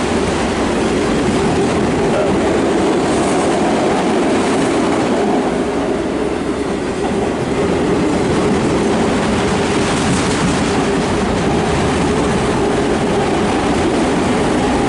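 Freight train of empty autorack cars rolling past, a steady loud rumble of wheels on rail.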